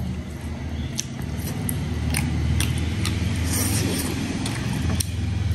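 Close-miked eating: a person chewing a mouthful of rice and curry, with scattered sharp mouth clicks over a low steady rumble.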